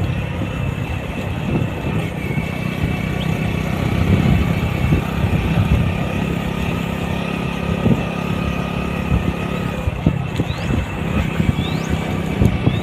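Steady engine rumble with a constant hum, with a few faint short high chirps near the end.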